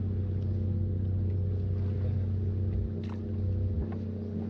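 Motorized kayak's drive motor running with a steady hum, with a few faint clicks about three seconds in.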